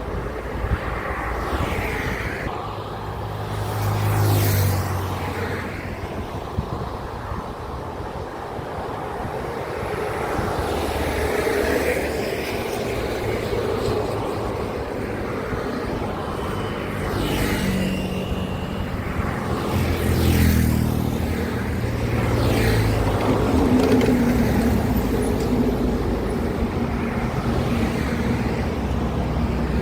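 Heavy road traffic: trucks and other large vehicles passing close by one after another, their engine drone and tyre noise swelling and fading as each goes past, several times.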